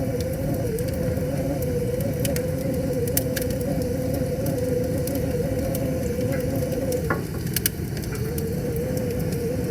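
Wood fire crackling with scattered sharp pops over the steady rush of a river. A steady, wavering hum runs underneath and breaks off for a moment about seven seconds in.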